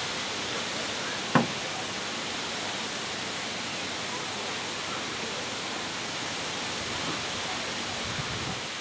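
Steady hiss of falling rain, with one sharp knock about a second and a half in.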